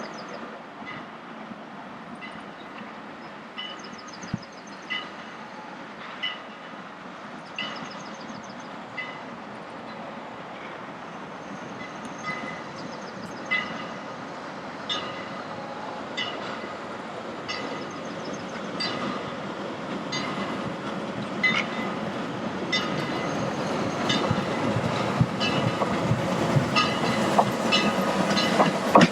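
Steam-hauled train led by a Mallet tank locomotive approaching and passing, its wheels clicking over the rail joints in a regular beat that grows louder and quicker near the end.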